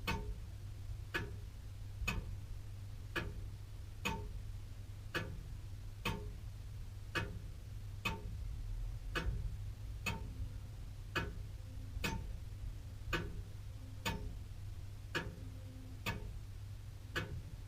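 Very old William Holliwell of Liverpool clock ticking steadily, about two ticks a second in an even tick-tock. A steady low hum lies underneath.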